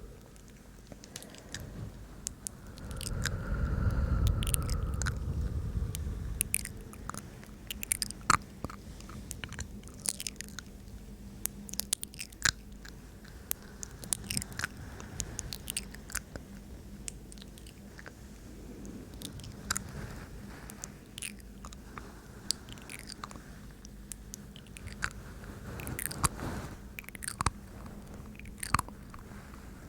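Close-up ASMR mouth sounds: many small, wet tongue clicks and lip smacks right at the microphone, scattered irregularly. A breathy rush swells up about three seconds in and fades a few seconds later.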